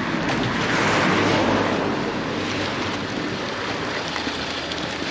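Steady heavy rain falling, a dense hiss that swells louder about a second in and then eases back.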